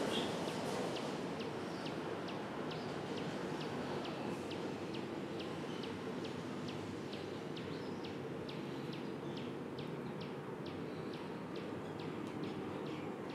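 A bird calling with short, high chirps repeated about three times a second, over a steady low background hum.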